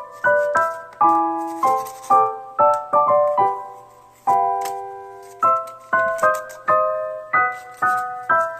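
Background piano music: a light melody of struck notes, a few a second, each ringing out, with a longer chord held about halfway through.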